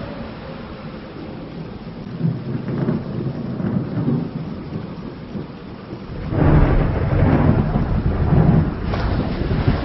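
Thunderstorm: steady rain with rolling thunder, a low rumble early on and a louder roll of thunder swelling up about six seconds in and easing off near the end.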